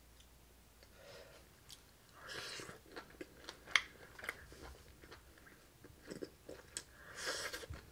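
A person chewing a crispy deep-fried piece of walleye: quiet wet chews with scattered crunches, one sharper crunch a little under four seconds in.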